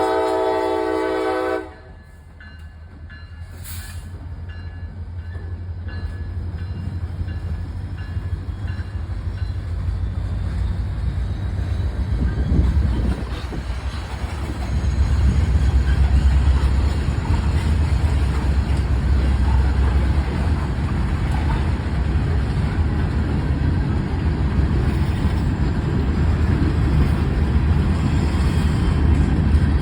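Train horn sounding for about a second and a half, cut off abruptly, followed by the low rumble of a passing train that grows louder over the next dozen seconds and then holds steady.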